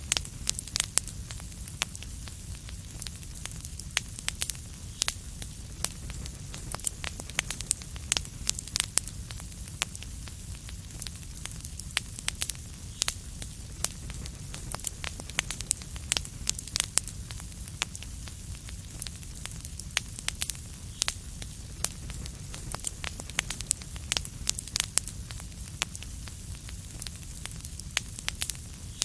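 Fireplace fire crackling, with frequent sharp pops and snaps, several a second, over a steady low rumble.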